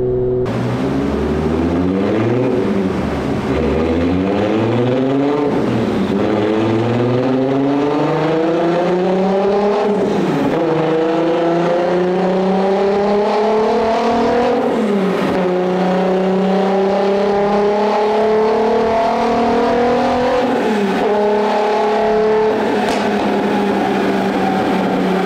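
Turbocharged 3.0-litre VR6 (Golf 4 R32 engine with R30 crankshaft) accelerating at part load on a roller dyno, through a 3-inch flap exhaust. The engine note rises steadily and falls back at each upshift, about five times; each pull in the higher gears climbs more slowly and lasts longer.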